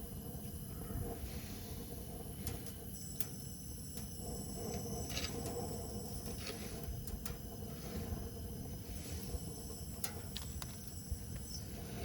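Lit Dyna-Glo gas grill giving off a steady hiss, with a few sharp clicks scattered through it; the owner finds the hiss strange, as it appears when the grill is ignited.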